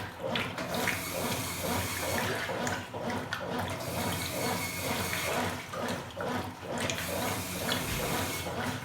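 Agitator-type top-loading washing machine mid-wash, water and clothes sloshing in the tub in a regular back-and-forth rhythm.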